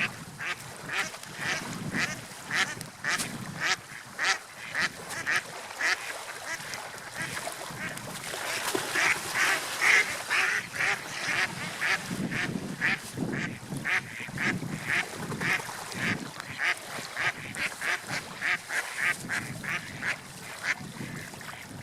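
A flock of birds calling: many short, sharp calls, two or three a second, over a steady wash of water and wind.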